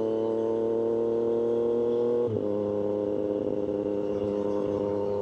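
Triumph Street Triple 765RS inline-three engine running through an aftermarket SC-Project exhaust under way, its note holding fairly steady and rising slightly, with a brief dip just over two seconds in before it settles again.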